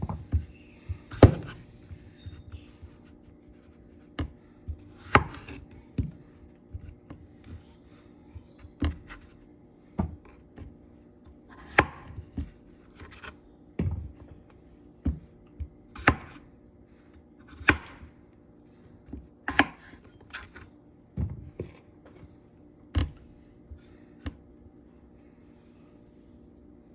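Kitchen knife cutting small yellow potatoes into quarters: irregular sharp knocks of the blade, roughly one every one to two seconds, over a faint steady hum.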